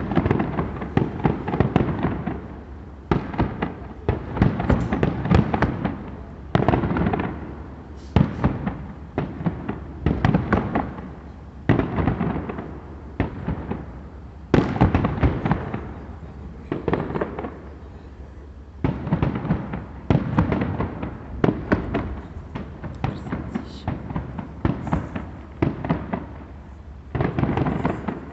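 Fireworks display going off in salvos: clusters of sharp bangs and crackling bursts, one volley every second or two with brief lulls between them.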